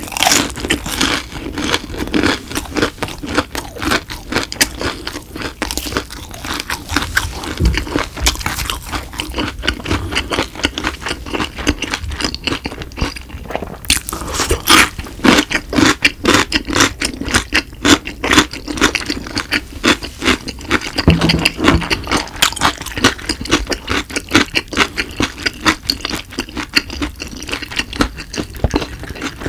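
Close-miked chewing: a fried cheese stick being chewed with wet clicking and crackling mouth sounds, then a cube of pickled radish bitten and crunched about halfway through.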